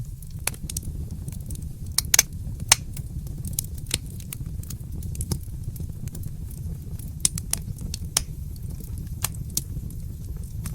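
Wood fire crackling in a fireplace: irregular sharp pops and snaps, a few louder ones about two seconds in, over a steady low rumble.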